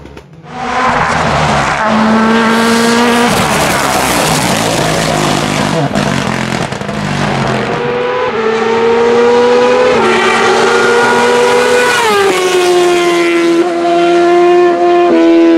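Hill-climb race car accelerating hard, very loud from about half a second in. The engine note climbs and drops back several times as it shifts up through the gears.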